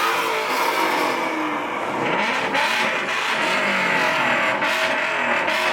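Car engines running and revving, with their pitch rising and falling over a dense, steady din.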